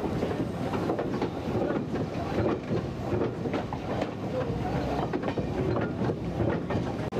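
Slow heritage train running along standard-gauge track, heard from on board: a steady rumble with irregular clicks of the wheels over rail joints.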